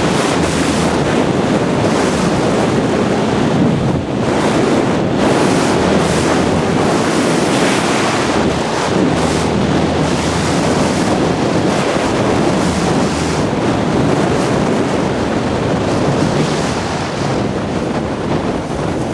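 Loud, steady wind rushing and buffeting over the microphone of a speed flyer in flight in very strong wind.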